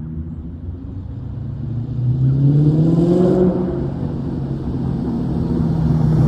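2003 Ford Mustang SVT Cobra's supercharged 4.6-litre V8 running through a Bassani exhaust, revving: the engine note climbs about two seconds in, peaks and eases back, then rises again near the end, getting louder.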